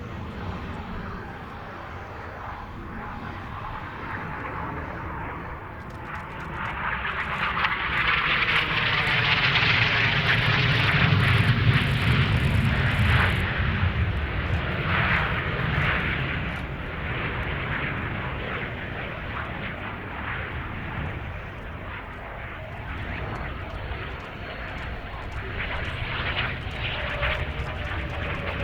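Hongdu L-15 jet trainer flying a display pass, its jet noise swelling to a peak about a third of the way in and then fading away, with the sound building again near the end.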